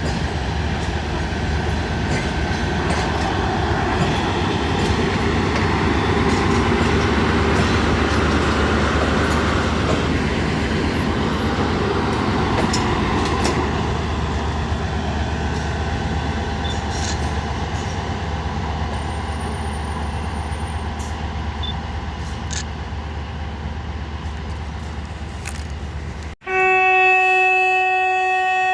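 Freight train passing close by: the diesel locomotive's engine hums low and steady under the rumble of the wagons for most of the time. Near the end the sound breaks off and a locomotive horn starts, one loud steady tone that is held.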